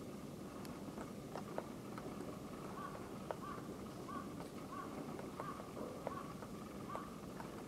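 Female great spotted woodpecker pecking at an oak trunk in irregular single taps. A run of about seven short, evenly spaced calls, a little over half a second apart, comes in the middle.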